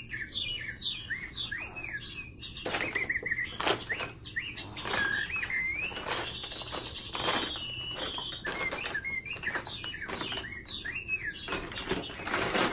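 Recorded bird chirps played through a cat wand toy's small built-in speaker, a string of short rising-and-falling chirps repeating throughout. Packing paper crinkles and rustles over it, most busily a few seconds in and again near the end.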